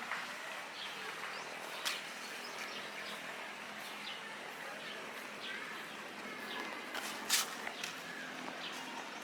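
Rural outdoor ambience with birds chirping over a steady hiss, and two sharp clicks, the louder one about seven seconds in.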